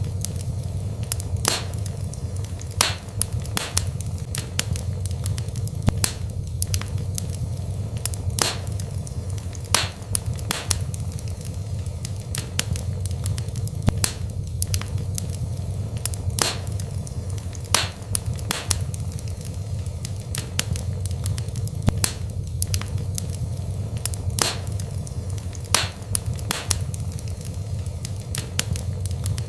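Wood fire burning in a fireplace: sharp crackles and pops, irregular, about one or two a second, over a steady low rumble of flames.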